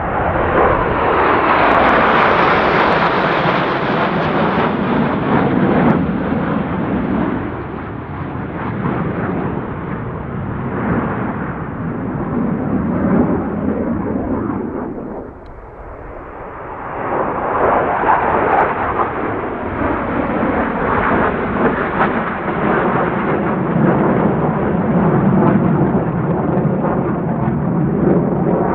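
Military jet aircraft flying past: loud, rumbling jet engine noise that swells, drops to a brief lull about halfway through, then builds again as it passes.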